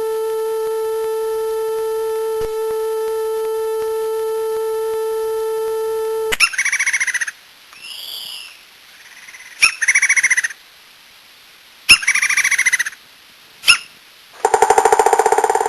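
A run of cartoon sound effects. First a steady electronic beep lasts about six seconds and cuts off suddenly. Then come several short chirping whistles that rise and fall in pitch, and a buzzy tone near the end.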